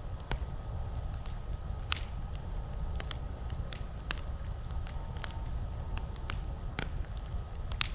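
Campfire crackling: irregular sharp pops and snaps from the burning wood, one or two a second, over a steady low rumble.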